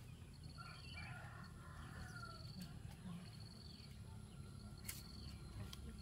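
Quiet rural ambience: a distant bird call, rising and falling, near the start, short high trills repeating about once a second, and a low steady rumble underneath.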